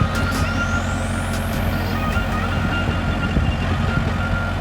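Tractor engine running steadily with a constant low rumble.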